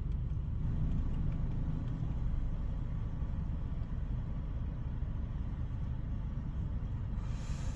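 Ryko Softgloss MAXX 5 soft-touch car wash heard from inside the car's cabin: a steady low rumble, with a short burst of hissing spray near the end.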